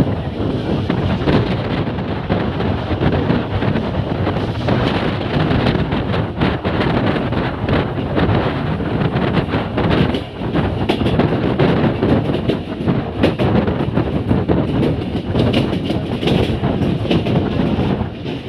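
Train running along the track, its wheels clattering over the rails with many sharp knocks in a steady, loud rumble.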